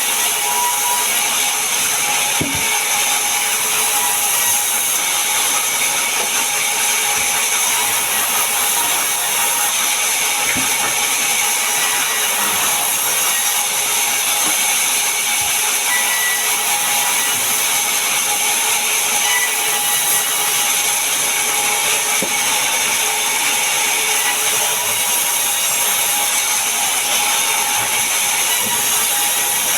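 Power saw cutting mahogany wood, running steadily and evenly at a constant level, with a few faint knocks.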